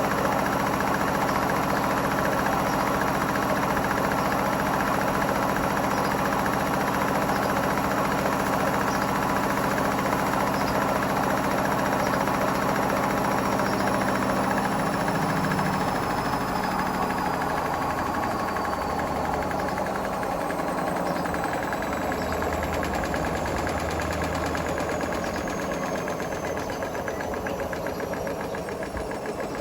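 Hotpoint Smart Tech WMFUG742 washing machine spinning at speed with bricks in the drum. About halfway through, its motor whine starts to fall in pitch and the noise slowly eases as the spin winds down.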